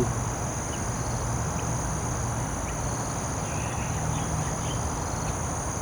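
Insects calling in a steady high-pitched drone over a low, even hum, with a few faint bird calls about midway.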